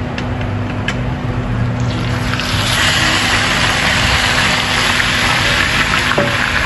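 Marinated chicken hitting hot oil and fried onions in a pan and sizzling. A couple of light clicks come first, then about two seconds in a dense hiss starts, swells and holds.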